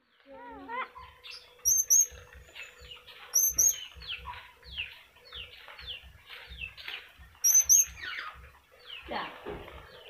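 Birds chirping and whistling: a steady run of quick falling chirps, broken by loud, sharp high double whistles about two, three and a half and seven and a half seconds in.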